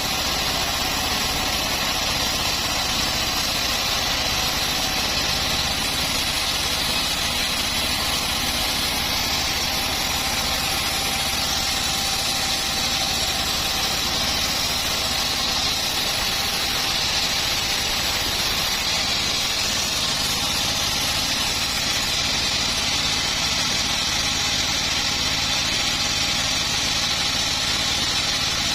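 Homemade bandsaw sawmill running steadily, its engine holding an even, unchanging note.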